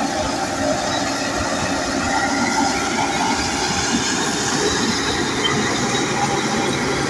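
Crawler bulldozer working, its diesel engine running steadily under load and its steel tracks moving as it pushes soil.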